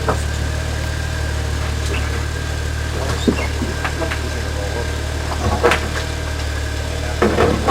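Off-road Jeep's engine running at a steady low idle, with a few short knocks, one about three seconds in, another past the middle and a cluster near the end.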